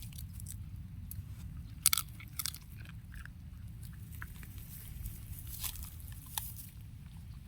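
An animal chewing and crunching food, with scattered short crunchy clicks over a steady low hum; the loudest crunch comes about two seconds in.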